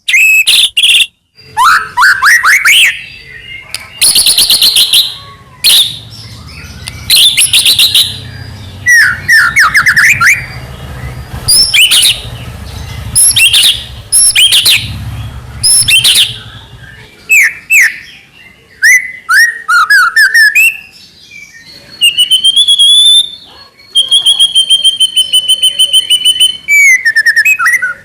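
White-rumped shama (murai batu) singing a loud, varied song of sweeping whistles, rapid trills and held whistled notes, in phrases broken by short pauses.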